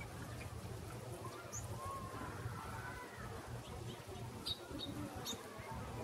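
A few short, high chip calls from small birds, several bunched together about four and a half to five and a half seconds in, over a faint steady low hum.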